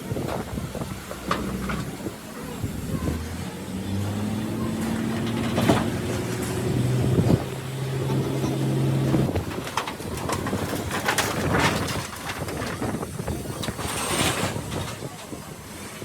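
Scattered knocks and clatter of workshop work, with a steady low-pitched drone running for several seconds in the middle.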